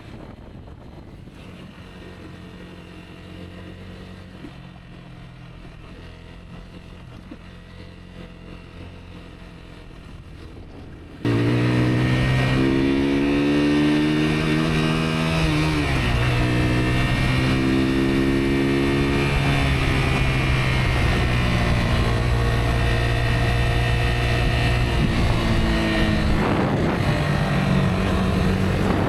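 Rieju Aventura 125 motorcycle's single-cylinder engine running as it is ridden, at first fairly quiet and steady. About eleven seconds in it becomes suddenly much louder, with the revs dropping and picking up again a few times.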